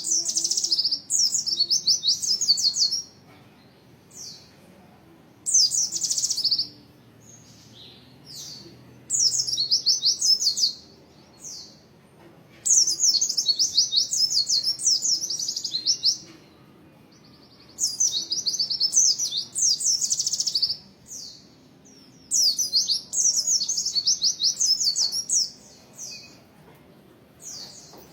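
White-eye (pleci) singing in full song: bursts of fast, high, densely packed trilled phrases, each lasting one to three seconds, repeated again and again with short pauses between them.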